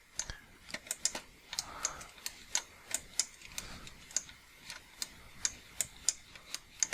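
Computer mouse clicking during sculpting strokes: sharp, light clicks, about three a second at uneven spacing.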